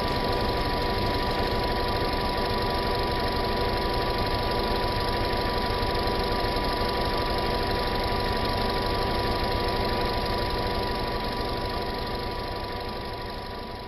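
Peugeot 307 1.6 petrol engine idling steadily, with a constant whine running through it, fading out near the end.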